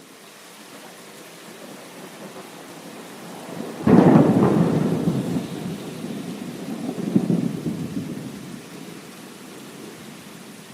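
Thunder in a rainstorm: steady rain hiss, then a sudden thunderclap about four seconds in that rolls away as a low rumble, swelling once more before fading back into the rain.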